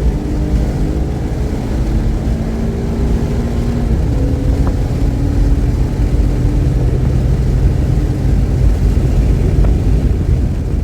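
Car engine running hard under load at track speed, its note rising and falling and shifting pitch about four seconds in, over a heavy low rumble of road and wind noise. The engine runs cleanly, without misfiring.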